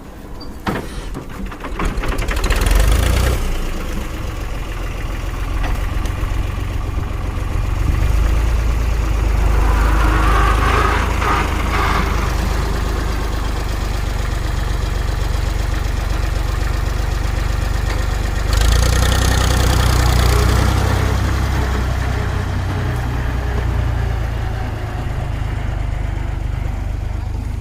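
Mahindra tractor's diesel engine starting about two seconds in, then running steadily, growing louder for a couple of seconds past the middle.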